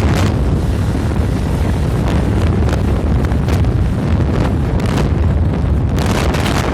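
Heavy wind buffeting the microphone while riding on a moving motorcycle, a loud, steady, low rumbling rush.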